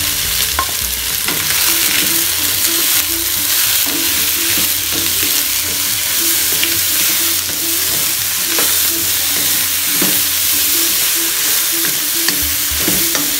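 Chicken, mushrooms and spring onion sizzling in a hot non-stick wok while being stirred with a wooden spatula, with scattered short scrapes and taps of the spatula against the pan.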